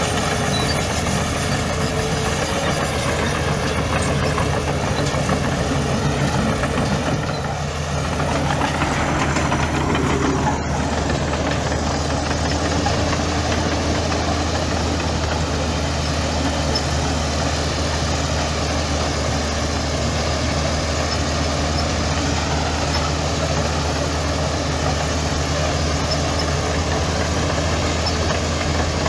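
Heavy earthmoving machinery running steadily: the diesel engine of a bulldozer or dump truck running at a constant speed, with a brief change in the sound about eight to ten seconds in.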